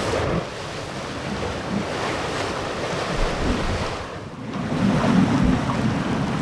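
Sea waves washing against a rocky shore, with wind rumbling on the microphone. The wash eases briefly about four seconds in, then swells back.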